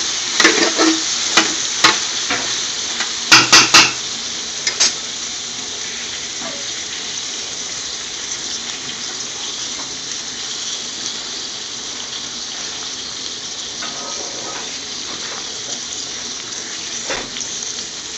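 Scotch bonnet peppers frying and sizzling in a metal pot. A spoon stirring them knocks sharply against the pot several times in the first few seconds, with three quick knocks about three and a half seconds in, then the sizzle goes on steadily.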